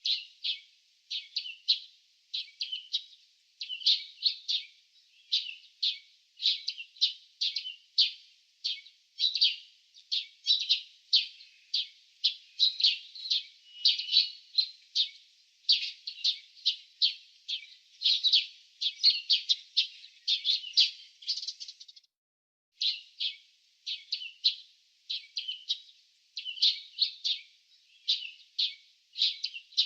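Small birds chirping in a rapid, continuous run of short high calls, several a second, with one brief break about two-thirds of the way through.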